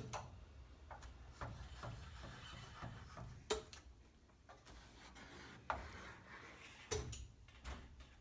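Faint handling sounds of gluing foam-board insulation onto a metal garage door: scattered light knocks and clicks with soft rubbing between them.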